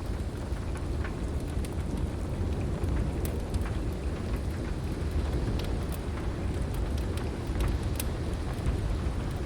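Heavy rain hissing over a deep, steady storm rumble, with sharp crackles and pops from a wood fire scattered every second or so.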